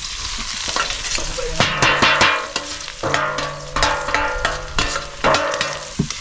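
Chopped onion, garlic, ginger and chili slid from a metal tray into hot oil in a wok, sizzling in repeated bursts. A metal spatula scrapes and stirs against the wok.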